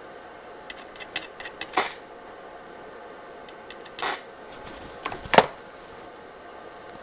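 Short sharp metallic clicks and crackles from stick-welding work on a steel jockey wheel: three louder bursts, with lighter ticks between them, over a faint steady hum.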